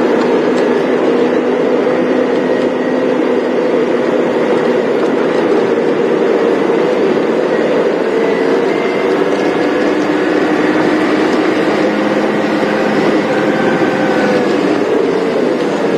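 Safari game-drive vehicle's engine running as it drives, a steady loud hum whose pitch drifts slowly up and down with the revs.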